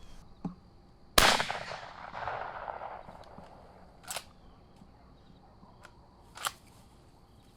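A single shotgun shot about a second in, its report rolling away for a second or two, followed by two fainter, shorter sharp reports later on.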